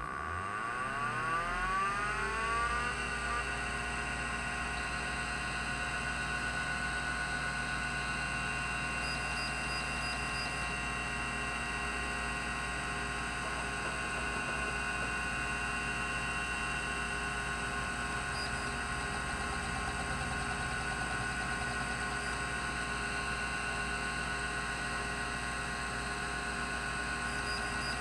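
Rodime RO352 3.5-inch hard drive's spindle motor spinning up, a rising whine over about the first three seconds, then running steadily at speed with a steady whine and hum.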